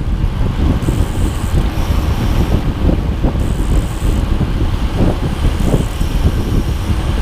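A moving vehicle running with a heavy low rumble and irregular knocks and rattles, with wind buffeting the microphone.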